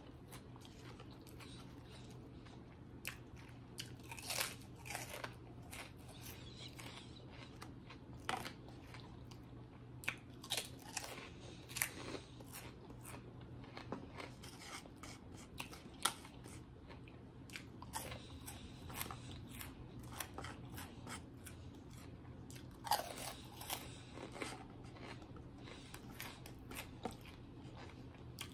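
Close-up crunching and chewing of fried pork rinds (pork skins), with sharp irregular crunches every second or so, some in quick clusters.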